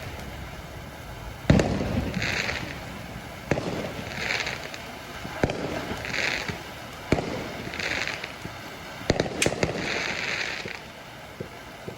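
Firehawk 'Flourishing Fountain' consumer firework firing a shot about every two seconds, each a sharp pop followed under a second later by a brief higher-pitched burst. The shots come closer together about nine seconds in, and the display dies down shortly after.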